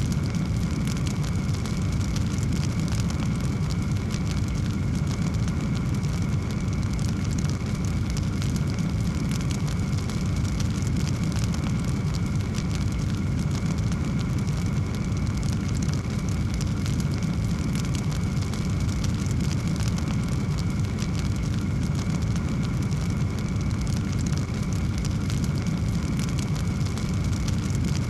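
Wood fire crackling steadily in a fireplace: a continuous low rumble of flame under a dense scatter of small crackles and pops.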